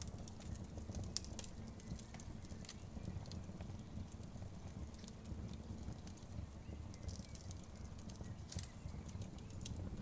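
Wood fire crackling in a fireplace: irregular sharp pops and snaps from the burning logs over a low, steady rumble of the flames.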